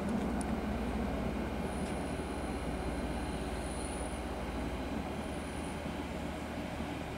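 GKB Stadler GTW diesel railcar running slowly through the station with a steady low running noise. A faint high wheel squeal sounds from about one and a half seconds in to about four seconds, and again briefly about five seconds in.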